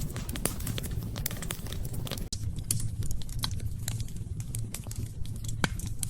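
Wood fire crackling in a fireplace: irregular sharp pops and snaps over a steady low rumble, with a brief dropout a little over two seconds in.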